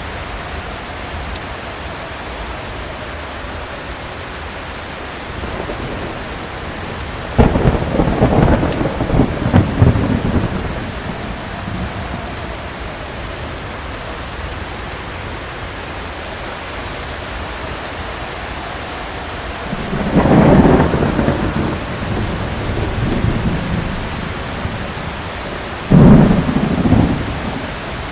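Steady heavy rain with thunder: a sudden loud clap about seven seconds in that rumbles on for about three seconds, a rolling rumble that swells around twenty seconds in, and another sharp, loud clap near the end.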